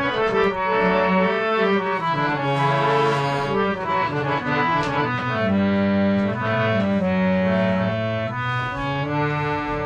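Harmonium playing sustained reedy notes and chords, the melody moving from note to note.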